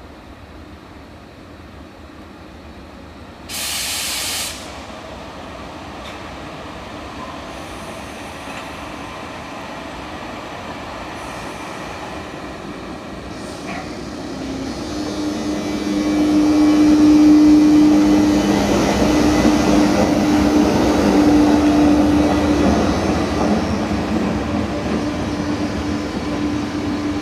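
A train running through a station, growing louder about halfway through, with a steady low droning tone from about 15 seconds on. A brief, loud burst of hiss comes about 3 to 4 seconds in.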